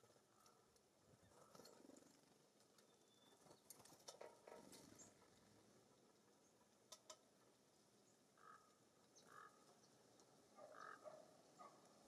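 Near silence: faint outdoor ambience at a bird feeder, with a few light clicks and, in the second half, several short, faint bird calls.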